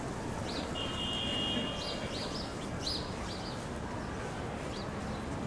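Small birds chirping in short, scattered high calls over a steady wash of city background noise, with one held high tone lasting about a second, starting about a second in.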